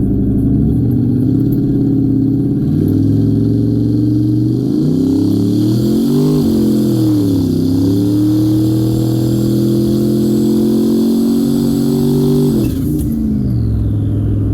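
Vehicle engine accelerating hard, its pitch climbing and stepping back down at gear changes, then holding steady before dropping off near the end.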